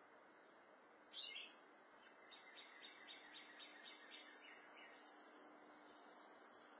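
Faint bird calls: one sharp note about a second in, then a quick run of evenly spaced notes for about two seconds. Behind them, insects buzz in repeated high pulses.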